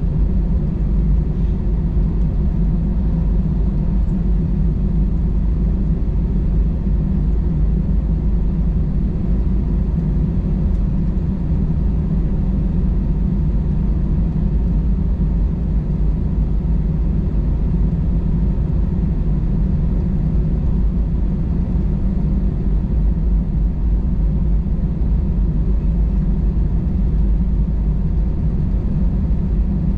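Steady low rumble of an Airbus A320-216's CFM56 engines, heard from inside the passenger cabin.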